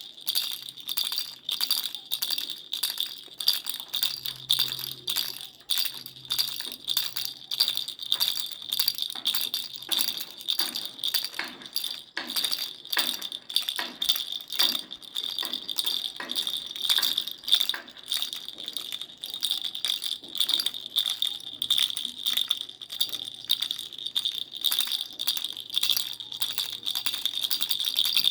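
A baby's rattle shaken over and over in a quick, even rhythm, about three shakes a second, each shake a sharp clatter. A steady high ring sounds underneath throughout.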